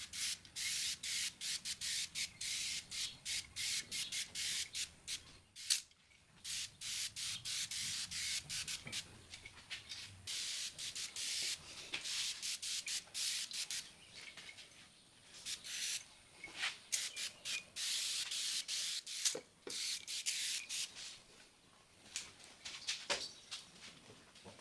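Hand sprayer squirting WD-40 in quick short hissing bursts, about two a second, in runs with short pauses, soaking a greasy magnesium transmission case as a degreasing pre-soak.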